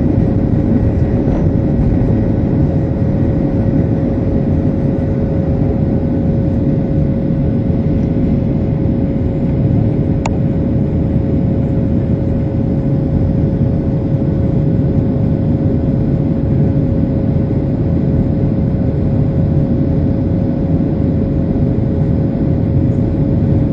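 Cabin noise of a Boeing 737-700 in flight: a steady low rush of its CFM56-7B engines and airflow, with a steady mid-pitched hum running through it. A single faint click about ten seconds in.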